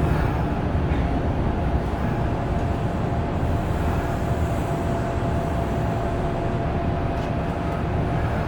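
Kintetsu 8000-series electric train running at a steady speed, heard from inside the car: an even rumble of wheels on the rails with one steady high tone over it.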